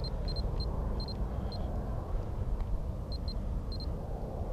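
Steady low rumble with faint short high-pitched beeps in clusters of two or three, repeating every half second or so.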